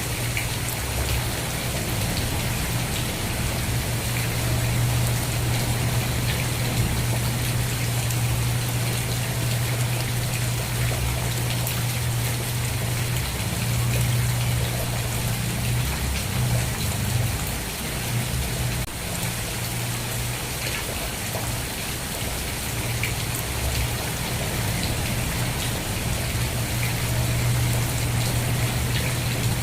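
Steady rain falling, with individual drops heard as small ticks over a constant hiss, and a steady low hum underneath.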